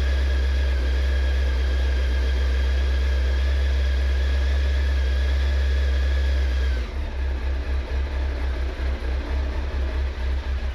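Honda CBR900RR Fireblade's inline-four engine running steadily after a coolant refill; about seven seconds in, a steady higher tone over it cuts out and the engine note turns uneven and pulsing.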